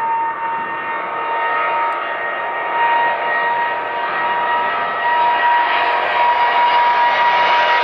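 Boeing 777's General Electric GE90 turbofan engines running at high power, a strong steady whine over a rushing roar. The hiss slowly climbs in pitch and the sound grows a little louder after about five seconds as thrust builds.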